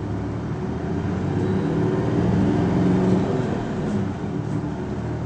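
Isuzu Erga city bus's diesel engine heard from inside the cabin while driving, growing louder over about three seconds as it pulls, then easing off.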